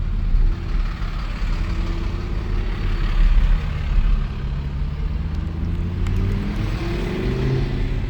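A vehicle engine running at low speed in slow-moving traffic, a steady low rumble with road and wind noise over it; the engine note rises a little near the end.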